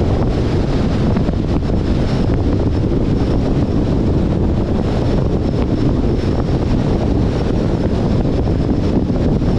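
Steady rush of wind over the microphone and road noise from a 2021 Jeep Compass driving, an even, unbroken low rumble.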